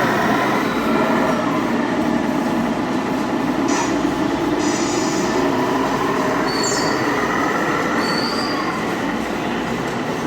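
Hydraulic pump and motors of a large radio-controlled Liebherr 960 excavator whining as it works, several tones gliding up and down in pitch over a steady mechanical hum, with a few short high chirps.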